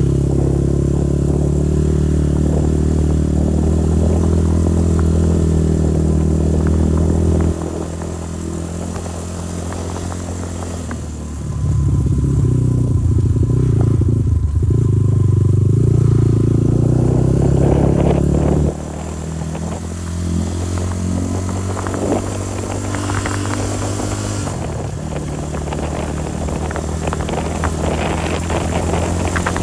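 Motorcycle engine running under way. Its note drops about seven seconds in, climbs and grows louder about eleven seconds in, and falls back near nineteen seconds, with rattling and knocks in the last third.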